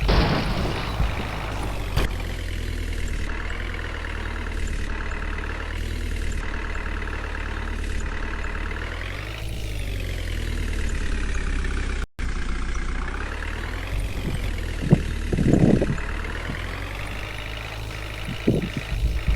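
Water tanker truck's engine running steadily, rising and falling in pitch once around the middle, with a brief gap just past the middle.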